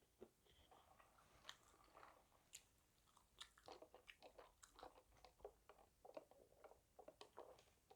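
A person chewing and biting fast food, a KFC burger and fried chicken set, as a faint string of short crunches and mouth clicks that grow denser and more regular from about three and a half seconds in.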